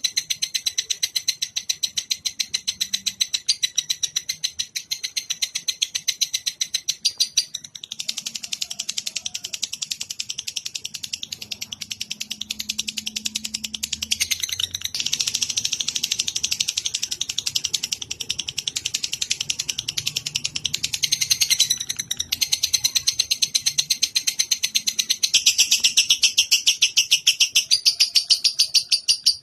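A songbird's continuous chattering trill of very fast, high chirps, changing pitch and pattern every few seconds without a break. It is a bird-song tutoring recording (masteran) played for caged songbirds to copy.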